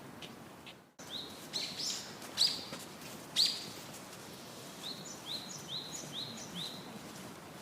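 Birds chirping in short, high calls: a few scattered notes, then a quick run of five evenly spaced notes.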